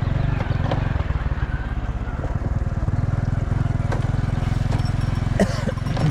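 Motorcycle engine running steadily while riding, a low, even engine note. A brief voice is heard near the end.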